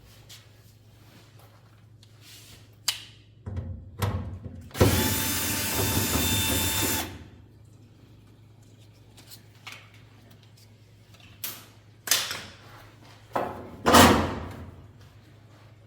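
A power drill runs steadily for about two seconds near the middle, amid scattered knocks and clunks of parts being handled.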